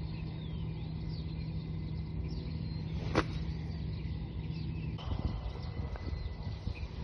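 Wind rumbling over the microphone as a front blows through, with birds chirping throughout and one sharp click about three seconds in.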